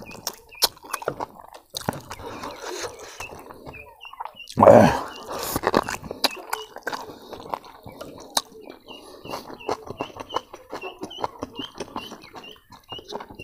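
Close-up wet chewing, sucking and lip-smacking of a person gnawing boiled pork trotter by hand, many small clicks and smacks, with one louder, longer burst about five seconds in.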